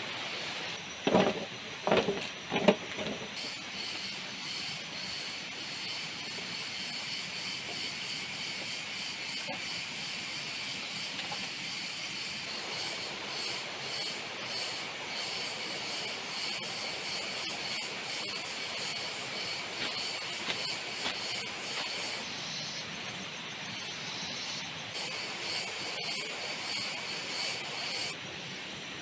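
Steady hiss of heavy rain, with a high-pitched layer that cuts out and back in a few times near the end. Three short, loud knocks come in quick succession about a second in.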